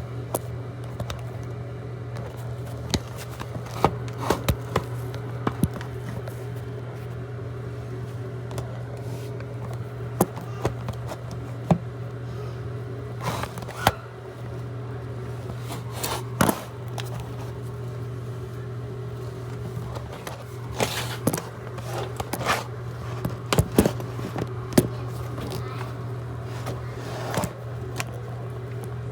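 A motor hums steadily under irregular clicks, knocks and scrapes from dryer vent cleaning work, with a cluster of sharper knocks in the middle and again near the end.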